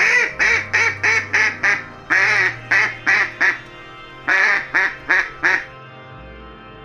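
Duck quacking in three quick runs of loud, short quacks, with brief pauses between the runs.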